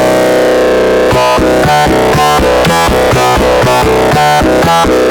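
Arturia MicroBrute analog synthesizer playing a sawtooth bass patch: one held note, then from about a second in a fast run of short, clipped notes at about four a second, changing pitch.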